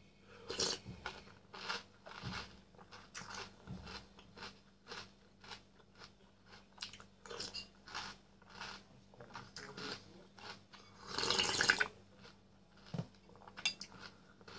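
Chewing and crunching a mouthful of Nesquik chocolate cereal balls in milk, short crunches about two a second, with a longer, louder noisy burst about eleven seconds in.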